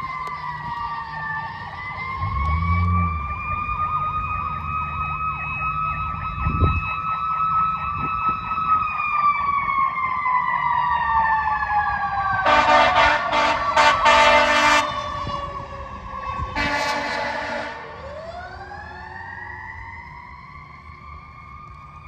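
Emergency vehicle siren wailing, its pitch slowly rising and falling, with two long air-horn blasts about halfway through before the wail winds up again.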